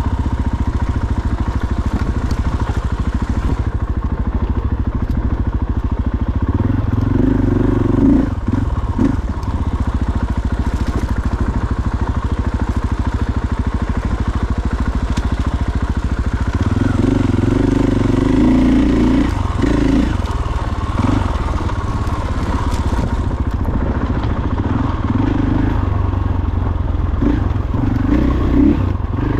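Dirt bike engine running while riding a single-track trail, the revs rising and falling with the throttle. It pulls harder in stretches about seven, seventeen and twenty-seven seconds in.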